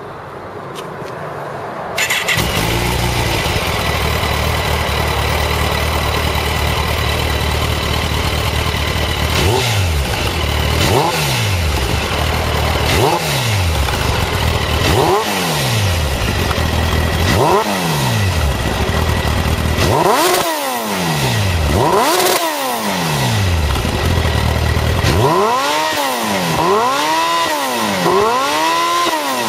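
Kawasaki ZZR1400's inline-four engine with a Striker full exhaust system starting about two seconds in and idling. It is then blipped with about ten short throttle revs that rise and fall back to idle, coming closer together near the end.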